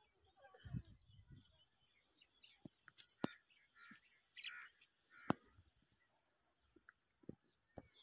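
Faint, scattered bird chirps, with a few sharp clicks and taps of handling and a faint steady high hiss underneath.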